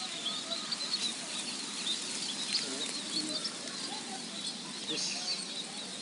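A flock of sparrows chirping, many short high chirps overlapping without a break.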